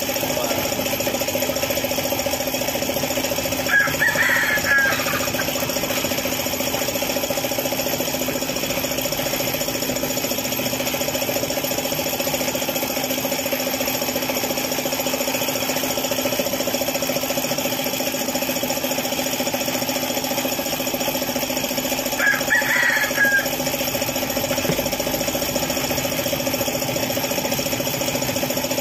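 Suzuki F6A three-cylinder engine idling steadily; its knocking is put down to a failed oil pump. Two short high chirps sound over it, about four seconds in and again near the end.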